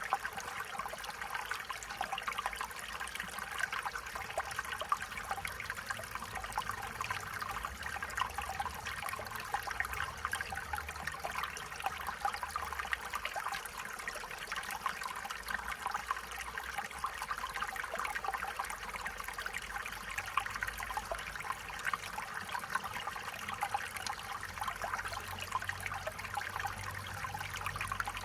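Stream water running and trickling steadily over stones, a continuous babbling with fine splashes.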